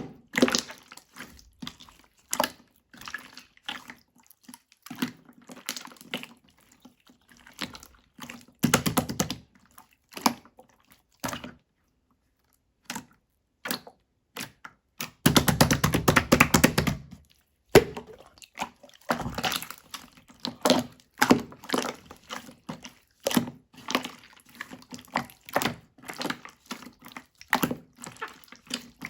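Clear slime being worked by hand: many small sticky pops and clicks, with two longer stretches of dense squishing about nine seconds in and from about fifteen to seventeen seconds.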